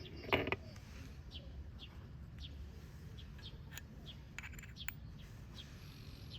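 A small bird chirping over and over, short high chirps about twice a second over a low steady hum. A brief knock sounds just after the start, and a few faint clicks come about four to five seconds in.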